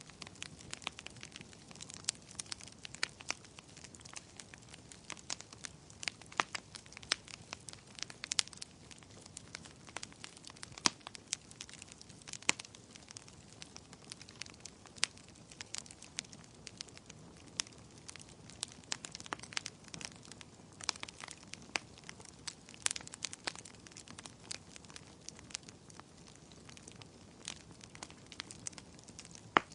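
Wood fire crackling, with frequent sharp irregular pops and snaps over a low steady rush of flame.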